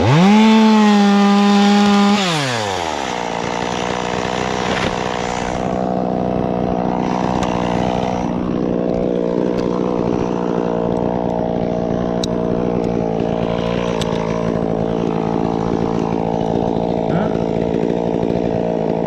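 Chainsaw engine revved high at the start, held for about two seconds, then dropping back to run steadily at a lower speed.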